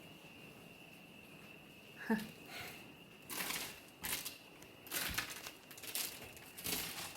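A single sharp click, then a string of crunching and crinkling steps, about one a second, as feet tread over debris on an old floor.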